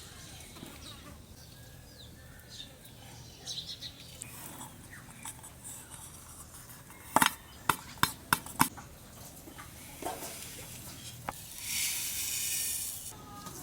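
Cooking utensils and dishes being handled: a quick series of about five sharp clinks some seven seconds in, then a hiss lasting about a second near the end.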